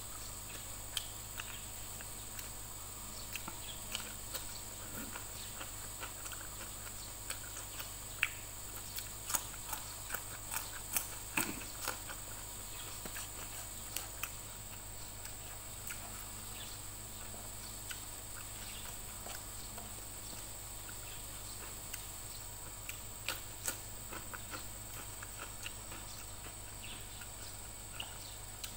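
Close-up eating sounds of a person chewing a hand-eaten mouthful of rice and fish: scattered wet mouth clicks and smacks, coming in bunches near the middle and again later on, over a steady low hum.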